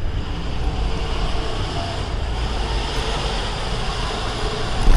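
Train running past with a steady rumble and a high whine, over a low rumble of wind on the microphone.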